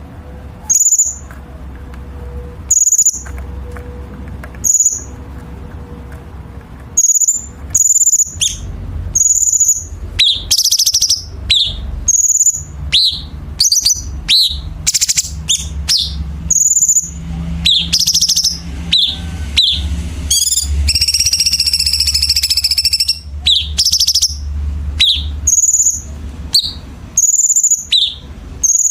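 Cucak cungkok songbird singing: sharp, high chirped notes repeated at irregular intervals, growing into busy phrases with bursts of harsh, rasping chatter (kasaran fill). A steady low hum runs under much of it.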